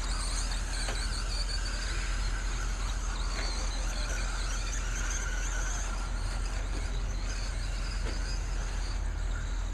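Several electric radio-controlled stadium trucks racing together, a steady mix of high, wavering motor whine over a constant haze of track noise.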